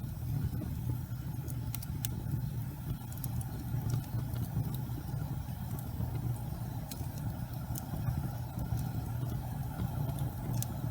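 Fire burning in a fireplace: a steady low rumble with scattered sharp crackles.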